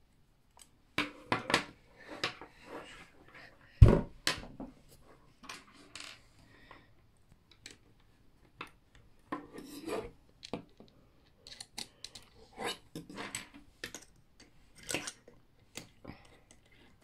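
Meccano Junior construction-toy parts being handled and fitted: irregular clicks, clatter and rubbing scrapes as pieces are picked up and put together, with one louder knock about four seconds in.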